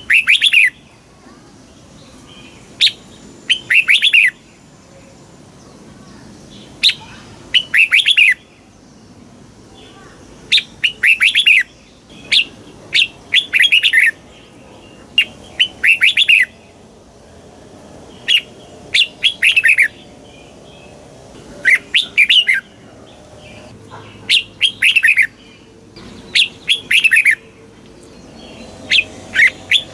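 Red-whiskered bulbul singing: short, bubbly warbled phrases, each opening with a sharp high note, repeated every two to three seconds.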